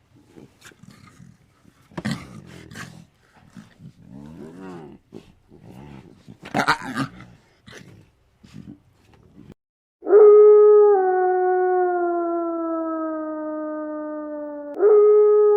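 Short, irregular animal grunts and growls for about ten seconds, then a loud long howl that falls slowly in pitch, with a second howl starting near the end.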